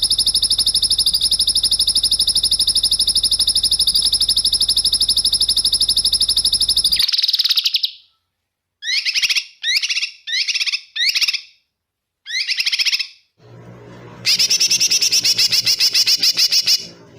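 Recorded songbird song of rapid, hard 'tembakan' phrases. A long, fast, high trill is followed by five separate sweeping whistled notes, then another fast trill near the end.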